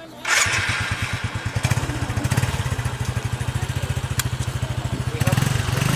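Honda CRM 250 single-cylinder two-stroke motorbike engine idling with a rapid, slightly uneven beat. It cuts in suddenly just after the start and is blipped up in revs shortly before the end.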